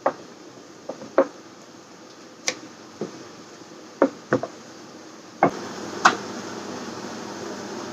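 Kitchen clatter: about eight sharp, irregular knocks and clinks of utensils or dishes. A steady rushing noise like a fan starts about five and a half seconds in.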